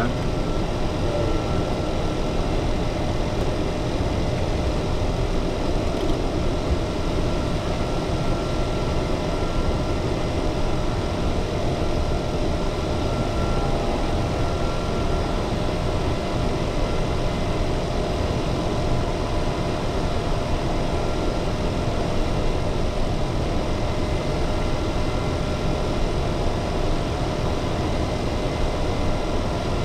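Steady hum and rush inside a Dassault Falcon 900's cockpit on the ground, with a few faint steady whining tones on top.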